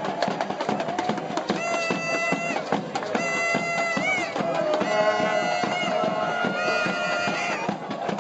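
Pipe band playing: bagpipes sounding a melody over a steady drone, with drums beating along.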